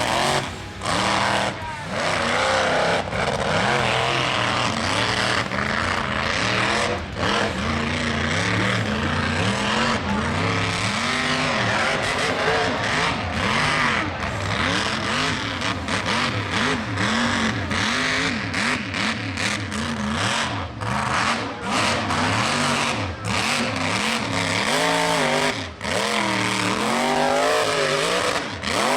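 High-horsepower mega mud truck engine at full throttle, revving up and down over and over, its pitch rising and falling.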